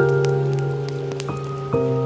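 Slow, gentle piano music, new chords struck every second or so, with the scattered pops and crackles of a wood fire behind it.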